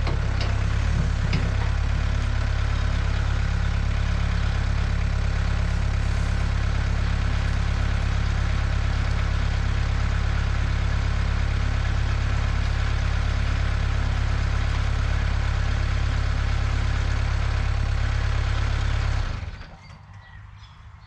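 Diesel engine of an old digger running steadily at a constant speed, then shut off about nineteen seconds in.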